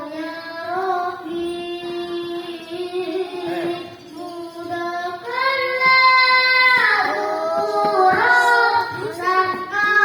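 A child singing solo in long held notes with ornamented turns, climbing to a higher, louder held note about halfway through.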